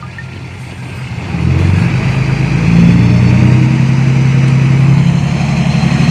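Diesel engine of heavy earthmoving equipment revving up sharply about a second in, then running loud and steady under load.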